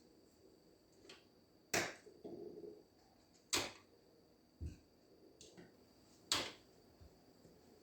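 Three sharp knocks, roughly two seconds apart, with a few fainter clicks between them over quiet room tone.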